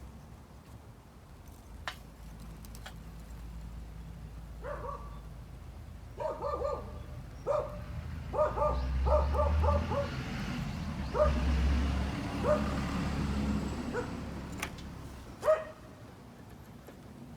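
A dog barking, short yapping barks in quick groups with pauses between them, over a low rumble that grows louder in the middle.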